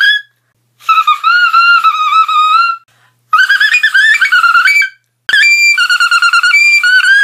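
A person's voice making high-pitched, warbling dolphin-like squeals in three long bursts of about two seconds each, with a short click just before the last one.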